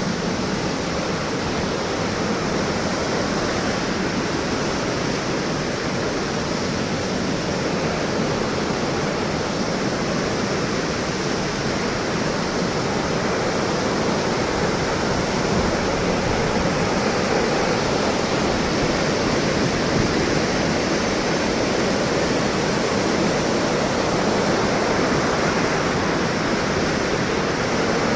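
The 74-metre Thomson's Falls waterfall pouring, a steady, even rush of falling water.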